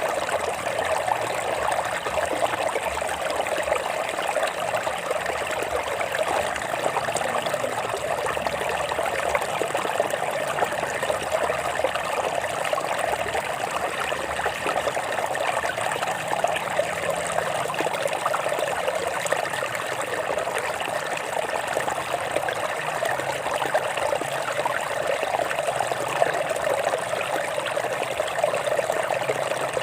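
Water of a small rocky stream trickling and splashing over stones in a steady, unbroken flow.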